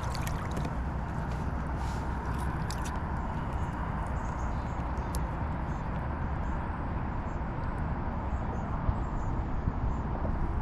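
Steady rushing wash of river water moving past a kayak, with a few faint clicks in the first few seconds.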